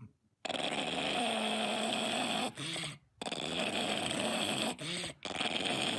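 A dog making drawn-out, even-pitched vocal sounds three times, each ending in a short rising-and-falling call, with abrupt breaks between them.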